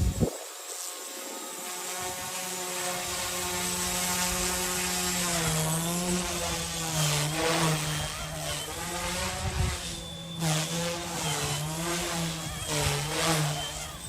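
Small RC helicopter's electric motor and rotor whining steadily, then its pitch rising and falling over and over from about five seconds in as the throttle is worked. A short knock right at the start.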